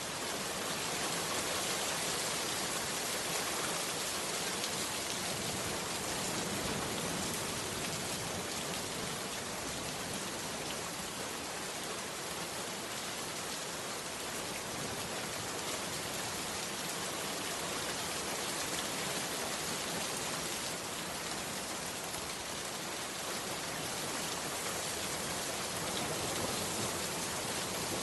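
Heavy rain falling steadily on a bamboo hut, an even unbroken patter with no change in intensity.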